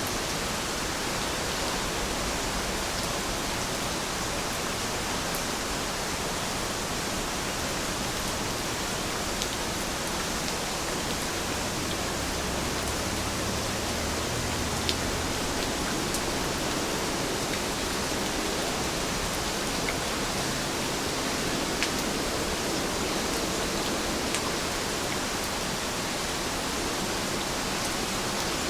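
Heavy rain falling steadily, an even hiss with a few faint drop ticks now and then.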